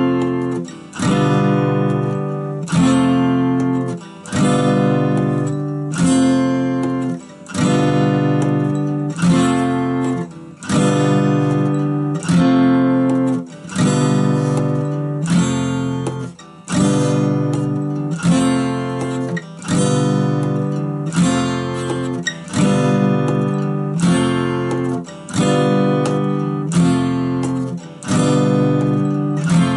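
Acoustic guitar strummed at a slow, steady tempo, switching back and forth between F and G7 chords, each held for two beats.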